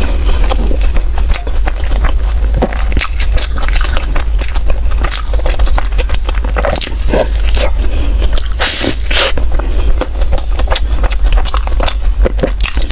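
Close-miked eating of pork floss bread: irregular wet clicks, crackles and scraping mouth sounds of biting and chewing. A steady low hum runs underneath.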